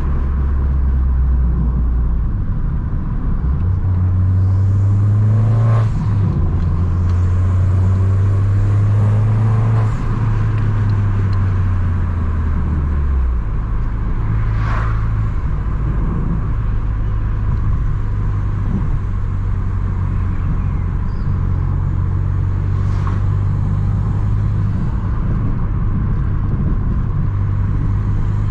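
Abarth 595 Competizione's tuned 1.4 turbo four-cylinder running through a full 60 mm aftermarket exhaust at steady moderate revs. The note rises a little about four seconds in and settles lower after about thirteen seconds, with a few brief sharp cracks along the way.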